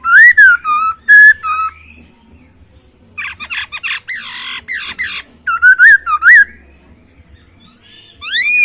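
Poksay Hongkong laughingthrush singing: loud, clear whistled notes in short phrases, broken in the middle by a couple of seconds of harsh, scratchy chatter, then more whistles and a final whistle that rises and falls near the end.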